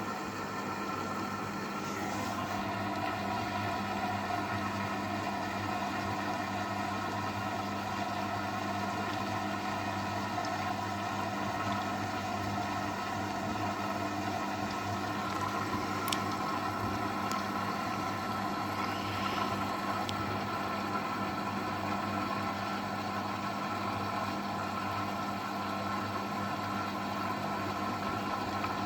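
AEG washing machine running with a steady motor hum and whine that holds an even pitch.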